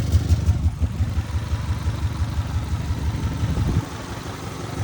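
Car engine idling with an even, pulsing low beat that the owner calls a weird slap; the engine is low on oil. The beat grows quieter near the end.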